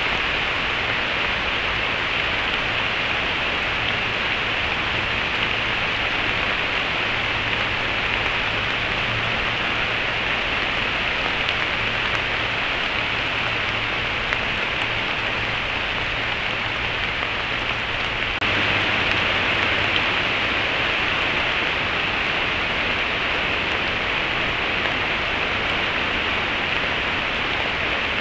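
Steady rain falling on leaves, heard as an even hiss through a trail camera's microphone, stepping up slightly in loudness about two-thirds of the way in.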